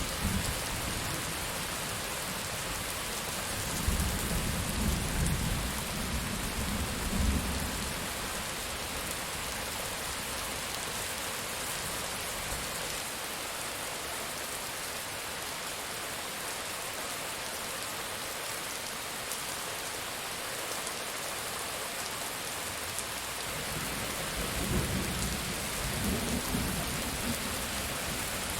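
Steady heavy rain falling, with two rolls of distant thunder rumbling low: one a few seconds in, lasting about four seconds, and another near the end.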